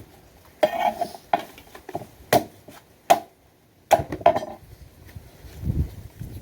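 Ears of green corn being husked by hand: sharp separate cracks and tearing as the husks and silk are snapped and pulled off the cobs, about six times, with a dull low thump near the end.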